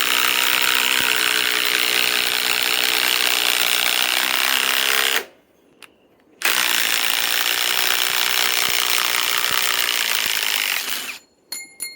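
Ryobi PSBIW25 compact cordless impact wrench hammering a large galvanized lag screw into wood. It runs in two long bursts: about five seconds, a pause of about a second, then about four and a half seconds more.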